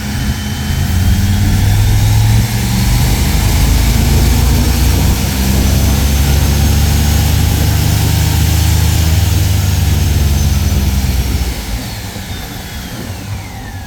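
A loud engine running with a thin high whine that climbs slowly for several seconds, then falls away; the sound eases off near the end.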